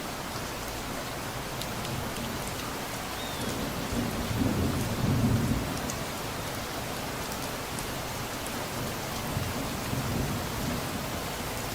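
Steady rain falling, with a low rumble of distant thunder that swells about four to five seconds in and fades, and a fainter rumble near the end.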